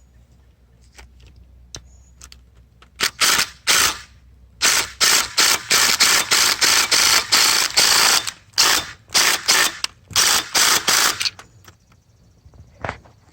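Impact wrench hammering in a series of trigger bursts, mostly short with one held for about two seconds, working at a stubborn fastener on a diesel engine being torn down. The bursts start about three seconds in and stop a couple of seconds before the end.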